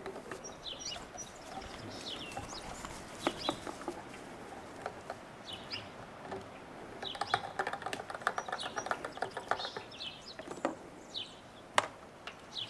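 Small birds chirping repeatedly, short high chirps throughout, with scattered clicks and knocks and a rapid run of ticking for a few seconds past the middle. No engine is running.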